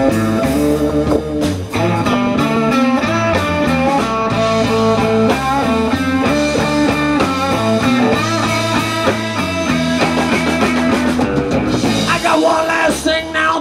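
Live blues band playing an instrumental passage led by guitar over bass and drums.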